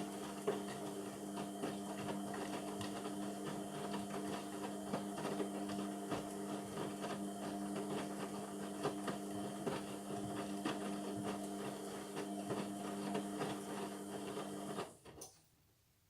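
Indesit MTWC71252WUK washing machine running mid-cycle: a steady electric hum with scattered clicks and rattles, which stops abruptly about fifteen seconds in.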